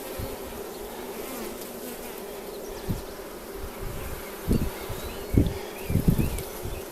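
Honeybees buzzing steadily around an opened hive, with a few low thumps about halfway through and near the end.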